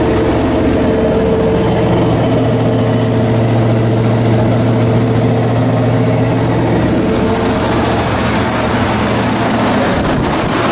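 1972 Chevrolet Monte Carlo's V8 idling steadily on its own, just brought back to life after sitting for months.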